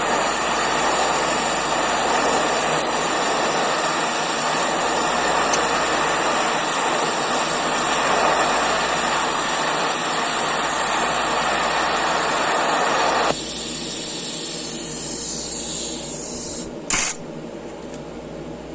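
Eastwood TIG 200 welding arc on steel: a steady hiss that cuts off suddenly about 13 seconds in as the arc stops. A fainter hiss then fades away, with a short click near the end. The bead was laid with too little heat to penetrate the sides, which the welder says made the filler ball up.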